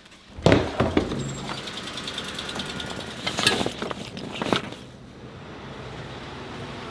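Vehicle interior: engine and road noise running steadily, with several sharp knocks and clatters in the first half.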